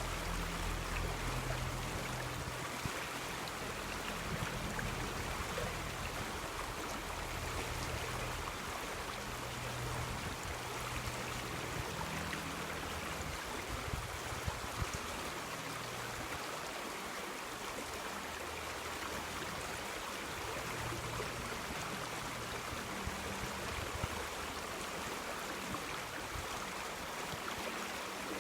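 A river flowing: a steady, even rush of running water, with a low rumble that comes and goes underneath.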